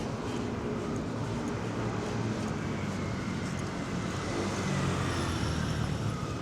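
Street traffic with a motor vehicle's engine running close by, swelling a little about four to five seconds in.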